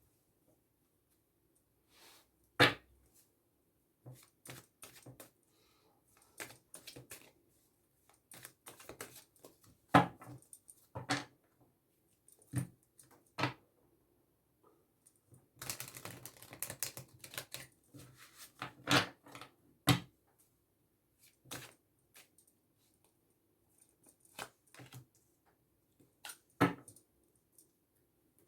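Oracle cards being handled on a table: irregular clicks and taps with a few sharper knocks, and a brief run of rapid clatter about sixteen seconds in, as in a shuffle.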